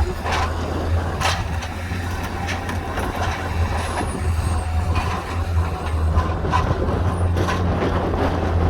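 Heavy diesel machine engine running steadily, with repeated sharp cracks and knocks of barn timbers breaking during demolition.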